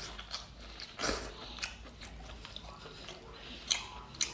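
Close-up wet chewing and slurping of seafood eaten off a scallop shell, with a slurp about a second in and two sharp clicks near the end.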